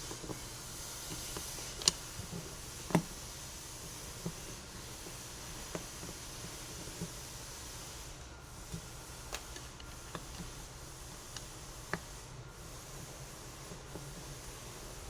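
Scattered short clicks and light knocks of hands working on an angle grinder and its small parts, over a steady hiss. The two loudest knocks come about two and three seconds in.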